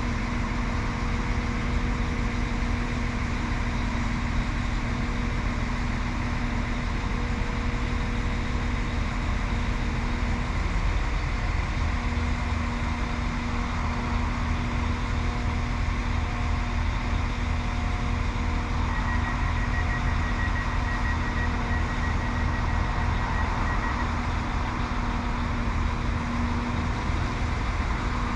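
Diesel train idling at the platform: a steady engine hum and rumble with a constant low tone, and a faint higher whine that comes in for a few seconds about two-thirds of the way through.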